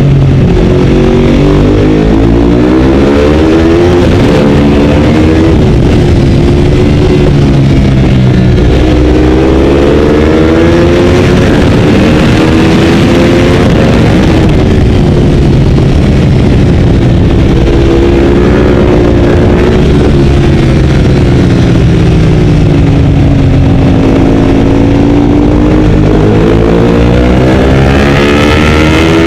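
Ducati 848's V-twin engine on the track at racing speed, heard onboard: the revs climb and drop again several times as the bike accelerates and slows, without a break.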